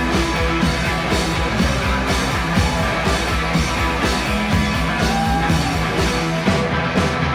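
Instrumental rock music: electric guitars, bass and drums keeping a steady beat, with no singing.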